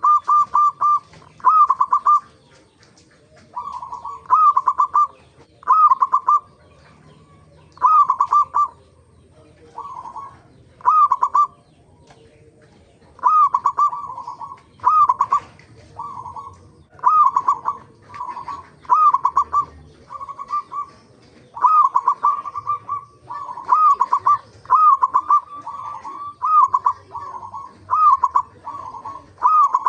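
Zebra doves (perkutut) cooing: a run of short, rippling coo phrases, each under a second long, coming about once a second with a few brief pauses.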